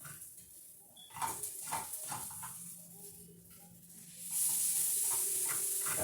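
Fried rice sizzling in a pan, with a few utensil knocks and scrapes from stirring. About four seconds in, the sizzling suddenly grows much louder and stays loud.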